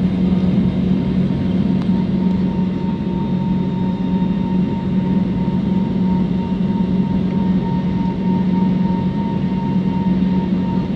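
Airliner cabin noise during the climb just after takeoff: the engines running at climb power, a steady drone with a constant low hum and a fainter steady whine above it.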